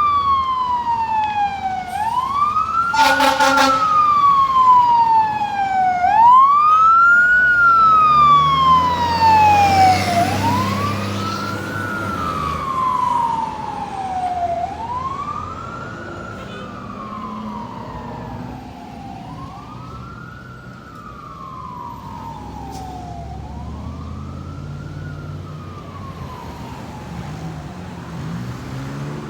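Fire truck's wail siren, each cycle rising quickly and falling slowly, about once every four seconds, with a short horn blast about three seconds in. The truck's engine rumbles as it passes, and the siren fades as it moves away.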